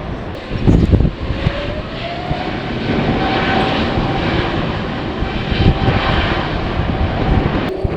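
Jet airliner engines running, with a whine that rises in pitch about a second and a half in and then holds steady. Strong wind buffets the microphone, loudest in a gust about a second in.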